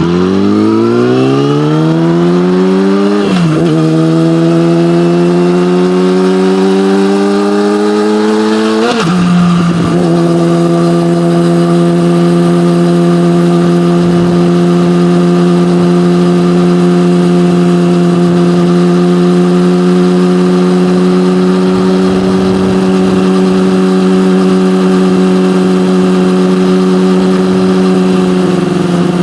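Yamaha motorcycle with an aftermarket SC-Project exhaust accelerating hard, its engine note rising and dropping at two upshifts about 3 s and 9 s in. It then holds a steady cruise and eases off slightly near the end.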